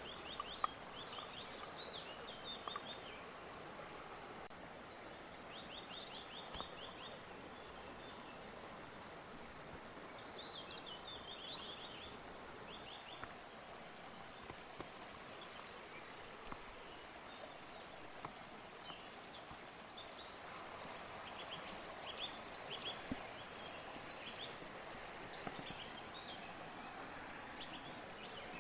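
Birds singing in short, rapid trilled phrases that repeat every few seconds, over a steady rushing of creek water, with a few faint clicks.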